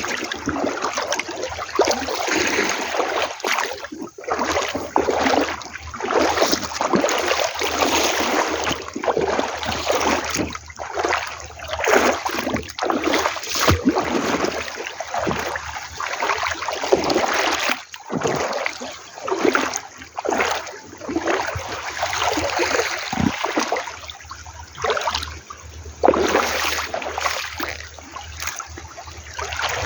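Seawater splashing and washing along the shore, in constant irregular surges.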